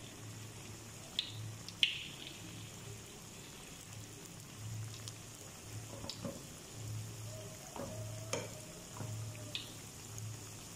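Battered banana fritters (pisang goreng) sizzling steadily in hot oil in an aluminium wok, with a few short clicks scattered through.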